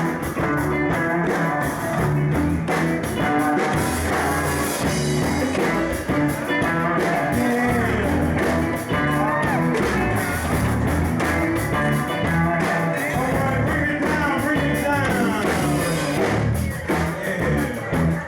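Live band playing a rock-and-roll number: electric guitar over bass and drums with a steady beat.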